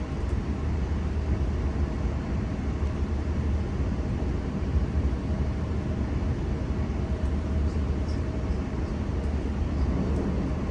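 Steady low rumble of a moving V set electric train, with a faint held tone above it and a few light clicks near the end.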